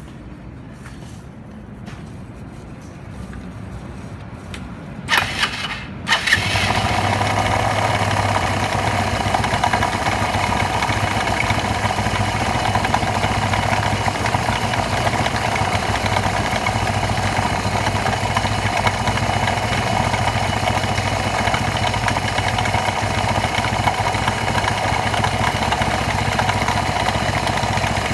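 Kymco G3 scooter's single-cylinder four-stroke engine started: brief cranking about five seconds in, catching about a second later, then idling steadily. The owner reports an abnormal noise at idle that has been getting louder and traces it to the clutch.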